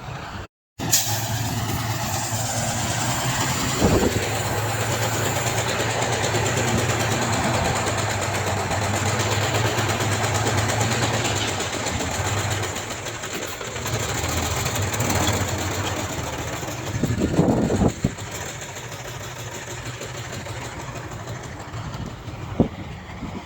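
Heavy diesel engine of an earthmoving machine running steadily under load, with a broad mechanical clatter over its low hum. A brief knock about four seconds in and a louder burst of clanking about three-quarters of the way through.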